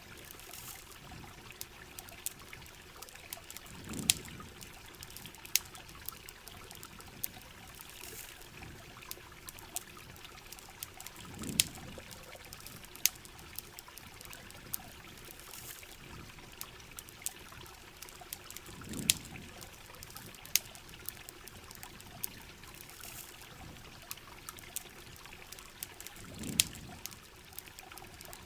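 Ambience of steady rain and running river water with a campfire crackling in sharp, irregular pops. A low swell rises and fades about every seven and a half seconds, four times.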